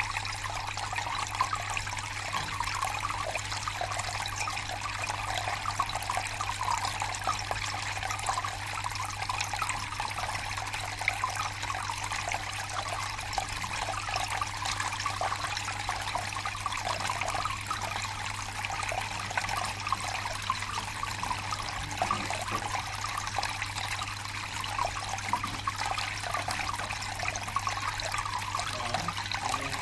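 Water fountain recorded up close: water splashing and trickling steadily without a break. A steady low hum runs underneath.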